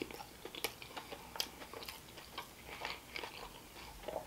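A person chewing a mouthful of loaded potato skin close to the microphone: a run of irregular small clicks and crunches.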